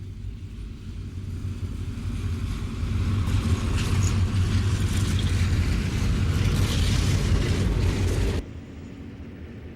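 EMD F7 diesel locomotives running, growing louder over the first few seconds as they near, with a steady low engine drone and rail noise, then cutting off abruptly about eight seconds in.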